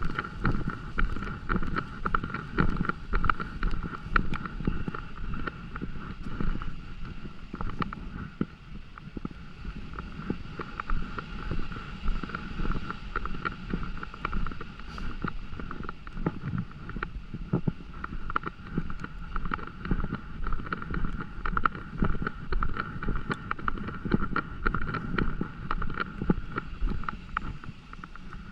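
Rainy outdoor walking ambience: a dense, irregular patter of close ticks from rain, over a low wind rumble on the microphone and a steady high hum.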